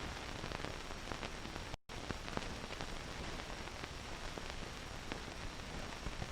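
Hiss and crackle of an old film soundtrack with a low hum, dotted with faint clicks; it cuts out completely for a moment just before two seconds in.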